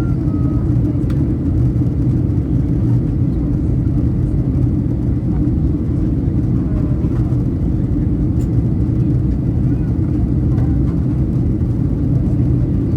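Steady cabin noise inside a Boeing 737-800 in flight: the deep, even drone of its CFM56 engines and the airflow over the fuselage, with faint voices underneath.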